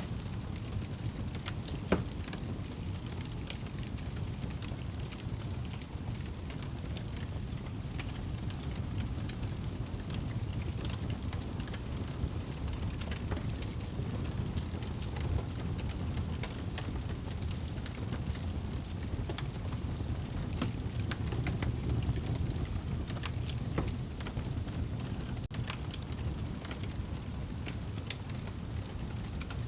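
Wood fire burning in a fireplace: a steady low rumble of the flames with scattered crackles and pops, one sharper pop about two seconds in.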